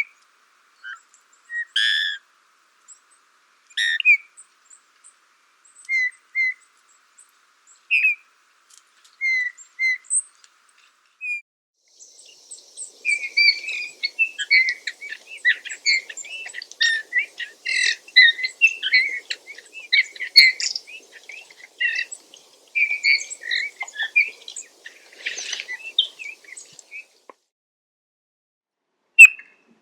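Eurasian bullfinch calling: short, soft piping notes a second or two apart. About twelve seconds in, this turns into a dense, continuous run of quick, varied song notes that lasts about fifteen seconds.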